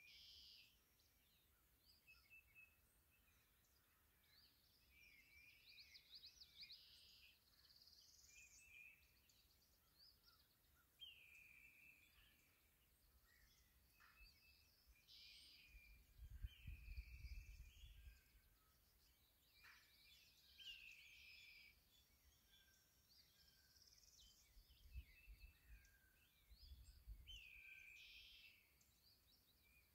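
Quiet outdoor birdsong: several birds calling in short chirping phrases every second or two. Two spells of low rumble on the microphone come around the middle and again later.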